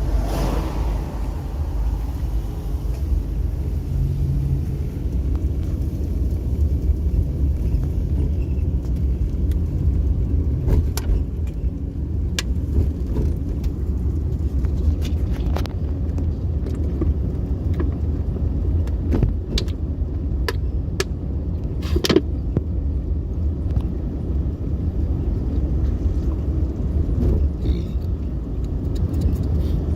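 A car driving along a road: a steady low rumble of engine and tyres, with scattered light clicks and knocks, one sharper knock about two-thirds of the way through.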